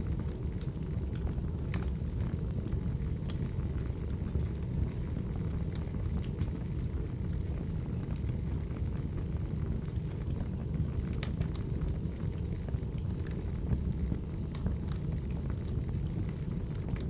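Wood fire burning: a steady low rumble of flames with scattered sharp crackles and pops from the firewood.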